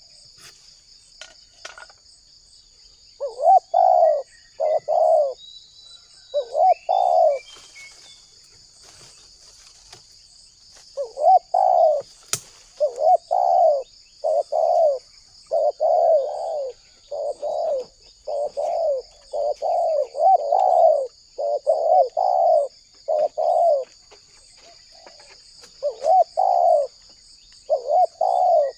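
Spotted dove (tekukur) cooing in repeated rolling phrases, a few at first, then a long run of calls, a short pause and more calls near the end. A lure call used to make wild doves answer. A steady high-pitched trill runs underneath.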